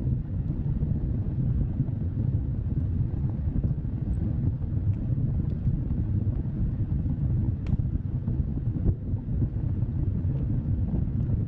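Bonfire burning with a steady low rumble and a few faint, sparse crackles.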